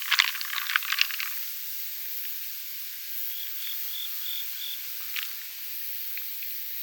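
A burst of crackling snaps about a second long, then an insect, likely a cricket, chirps five times in an even series over a steady high hiss.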